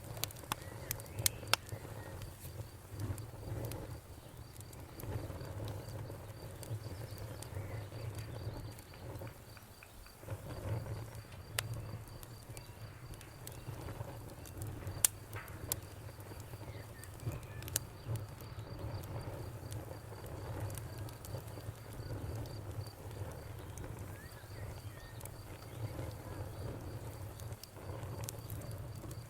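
Wood fire crackling, with a steady low rumble and scattered sharp pops, the loudest about 15 seconds in.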